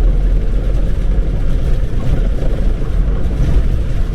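Steady low rumble of a semi truck running.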